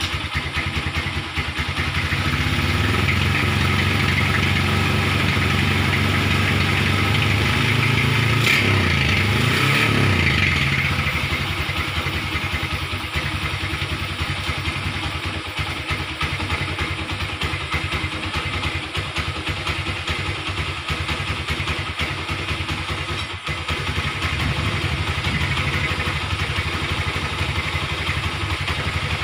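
Engine of a red Honda CB custom motorcycle running steadily. It is held at a raised speed and is louder from about two seconds in, with the pitch swinging up and down near the end of that stretch. About eleven seconds in it drops back to a steady idle.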